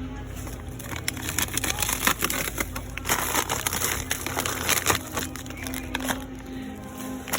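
Rustling and crinkling of plastic packaging or shopping bags being handled, with many small crackles and clicks.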